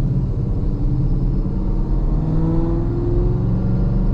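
Chevrolet Camaro SS V8 running with its exhaust set to stealth mode, a muted low rumble that is very quiet for the car. The revs climb steadily through the middle and ease off near the end.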